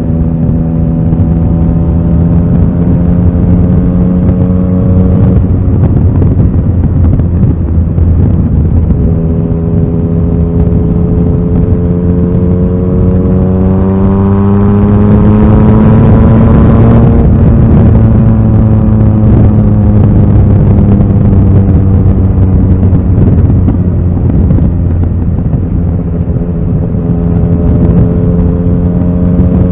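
Yamaha XSR900 inline-three engine under way: holding a steady note, dipping briefly about five seconds in, then climbing steadily to a peak a little past the middle, easing back down, and rising again near the end.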